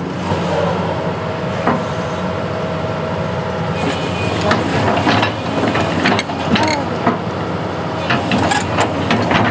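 A construction machine's engine running steadily, with a run of clicks and clanks starting about four seconds in and growing busier near the end.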